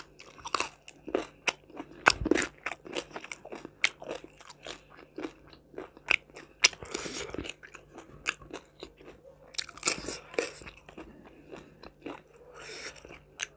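Close-miked eating: crunching and chewing food, with many short sharp mouth clicks and two longer, noisier stretches of chewing about seven and ten seconds in.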